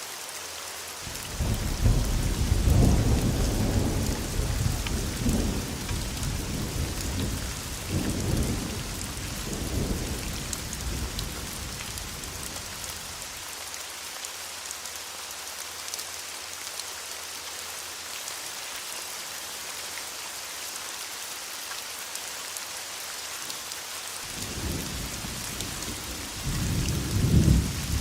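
Steady rain falling throughout, with a long rolling rumble of thunder that starts about a second in, swells and fades away over about twelve seconds. A second thunder rumble builds near the end.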